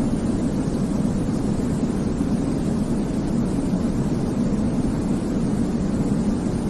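Steady sleep-aid white noise, a deep, even rumble weighted toward the low end with little hiss, unchanging throughout.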